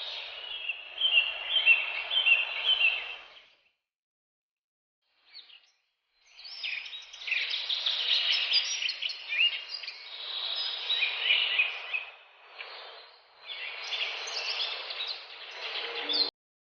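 Many small caged finches chirping and calling together in a dense chatter. It comes in two stretches with a few seconds of silence between them, and the second cuts off suddenly near the end.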